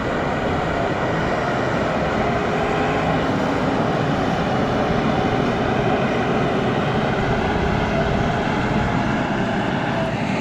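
Diesel engine of a JCB 3DX backhoe loader running steadily under load while it works the loader in mud.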